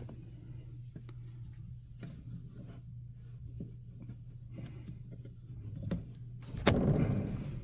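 Faint clicks and rubbing of rubber hoses and plastic intake tubes being handled and rerouted in a car's engine bay, over a steady low hum. There is one sharp knock about seven seconds in, followed by a brief rustle.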